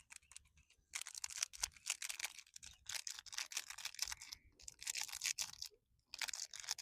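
A plastic Maggi masala seasoning packet crinkling and being torn open by hand, in three stretches of crackling.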